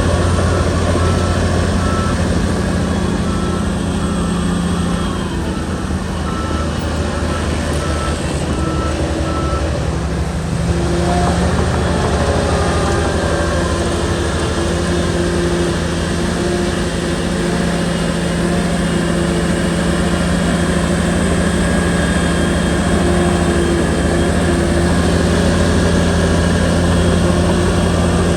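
SHANTUI bulldozer's diesel engine running steadily under work, with its reversing alarm beeping about once a second for the first nine seconds. Around eleven seconds in the engine note rises slightly and holds.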